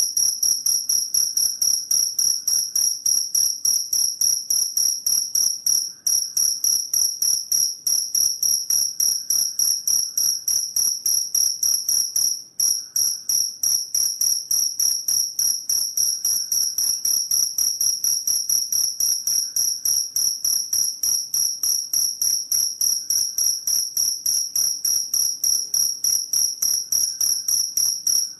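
Cricket chirping continuously: a fast, even run of high-pitched pulses, about four to five a second, broken twice by a brief gap.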